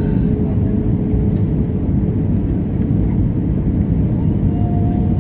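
Airbus A320 cabin noise heard from a window seat: a steady, loud rumble of the jet engines and airflow, with a steady hum over it.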